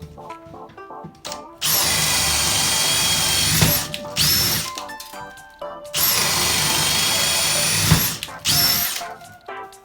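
Abeden HY-2035 18V brushless drill driver run twice, each time for about two seconds. Its motor whine spins up quickly, holds steady, then stops, and each run is followed by a short second burst.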